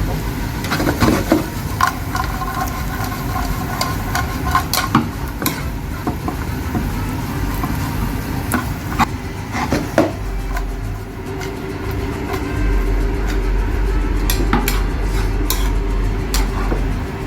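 Stir-frying chicken strips with vegetables in a pan: a utensil scrapes and knocks against the metal in irregular clanks over a light sizzle. A steady low hum sits underneath and gets stronger about ten seconds in.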